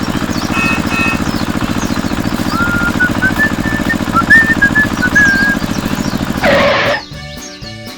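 A small motor running with a fast, even rattle, with a whistled tune over it from about two and a half to five and a half seconds in; the rattle stops suddenly about seven seconds in.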